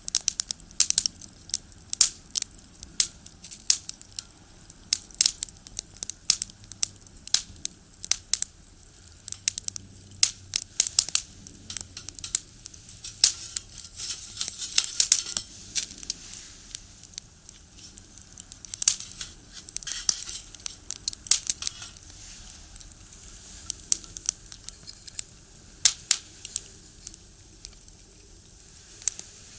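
Firewood burning in a box stove, crackling and popping with irregular sharp snaps and a brief stretch of hissing about halfway through.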